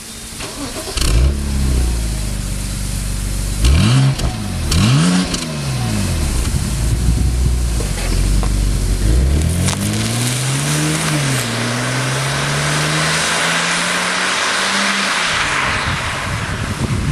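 BMW E90 325i inline-six through its stock exhaust. It starts up about a second in and is blipped sharply twice, then climbs in a longer, steadily rising rev that gives way to a hiss near the end.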